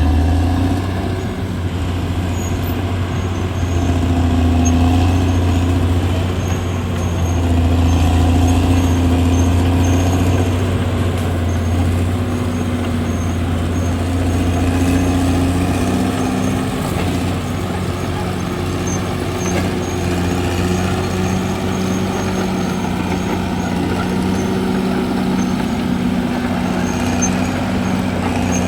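CAT D6R XL bulldozer's diesel engine running hard as the dozer works, a steady low drone that swells and eases several times with the load.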